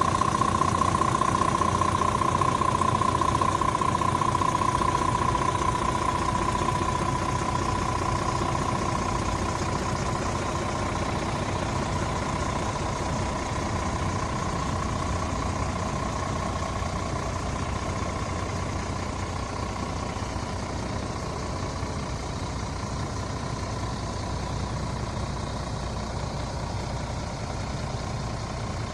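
Scania R450 truck's 13-litre inline-six diesel idling steadily, with a high whine that is loudest at the start and slowly fades over the first several seconds.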